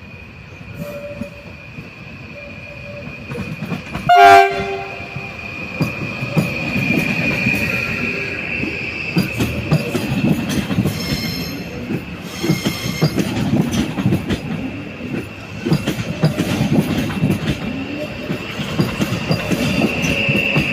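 A train horn sounds one short blast about four seconds in, over a steady high-pitched squeal of train wheels on the rails. Then the rumble and clatter of a train's wheels over the rail joints builds and carries on.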